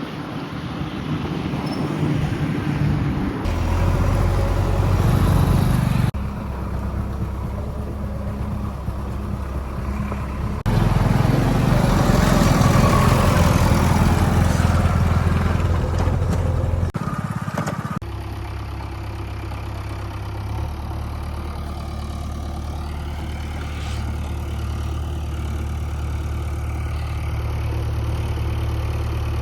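Heavy diesel engines of a backhoe loader and a tractor running and working, in several joined clips. They run louder for a few seconds and then for about six seconds in the middle, and settle to a steadier hum in the last part.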